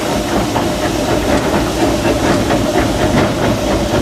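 Steady hiss of steam and running noise heard from the cab of a 1925 Baldwin steam locomotive (Disneyland Railroad #4) under way on the track.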